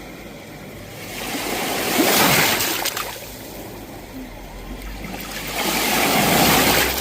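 Sea waves breaking on the shore: two waves in turn, each swelling to a rush of surf, one about two seconds in and one near the end.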